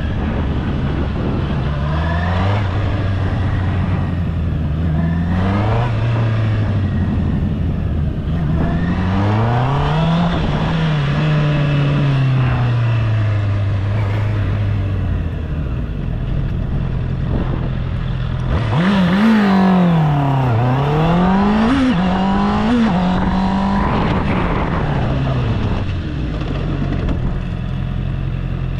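Honda CB650R's inline-four engine running under changing throttle, its note rising and falling again and again as the motorcycle accelerates and slows. About two-thirds through there are several quick rises and falls in pitch, and near the end the note settles to a steadier low tone.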